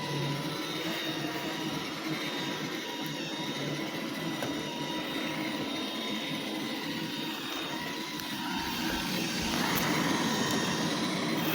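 iRobot Roomba 877 robot vacuum running, a steady motor whir with a thin high whine over it, getting louder about nine and a half seconds in.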